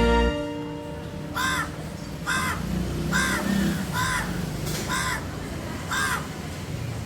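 A crow cawing, six harsh caws in a row about a second apart.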